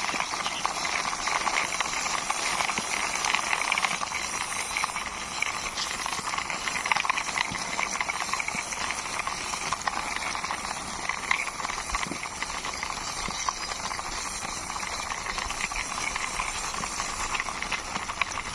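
Plastic toy excavator pushed along by hand, its wheels rolling and rattling in a steady stream of fine clicks and scraping hiss.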